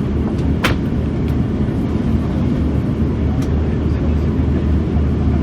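Steady low rumble of cabin noise inside an Airbus A340-600 airliner, with one sharp click about two thirds of a second in.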